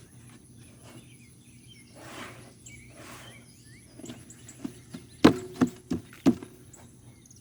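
Hands digging through soil in a planter: soft rustling and scraping, then, from about halfway on, a series of sharp knocks with a short hollow ring.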